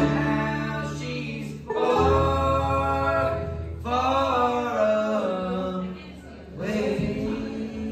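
Live bluegrass band playing: a voice sings a line over acoustic string instruments.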